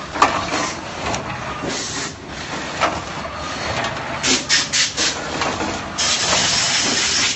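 Snack packaging machine running: a sharp click, uneven rustling and hissing with a few quick bursts, then a loud steady hiss that cuts off suddenly.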